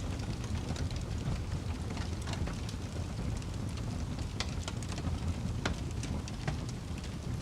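Wood fire burning: a steady low rumble with scattered sharp crackles and pops, a few of them louder than the rest.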